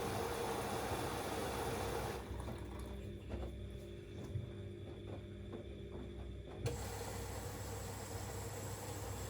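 Siemens Extraklasse XLS 140 A front-loading washing machine running a 90 °C boil wash, with a steady hiss and low hum. The hiss drops away for about four seconds in the middle, leaving a few faint knocks, and comes back with a click.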